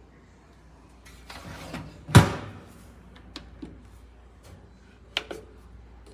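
A door being handled: a short sliding scrape, then one sharp knock about two seconds in, followed by a few lighter clicks and taps.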